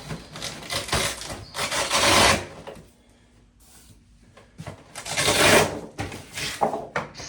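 Rustling and scraping of shipping packaging being handled and pulled apart, in two loud spells with a quiet pause between.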